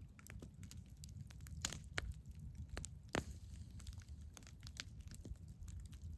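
Wood campfire crackling, with irregular snaps and pops over a low rumble; a few sharper pops stand out around two and three seconds in.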